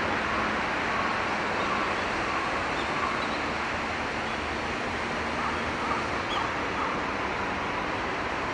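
Steady rush of flowing river water, even in level throughout.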